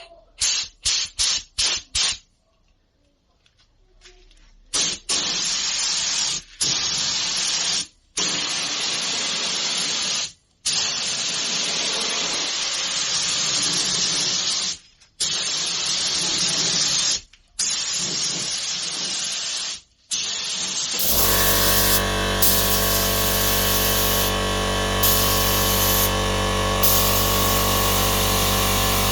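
Spray glue hissing from the nozzle: a quick series of about six short puffs, then long sprays broken by brief pauses while the adhesive is laid on. About two-thirds of the way through, the spraying gives way to a steady, even hum with a fixed pitch.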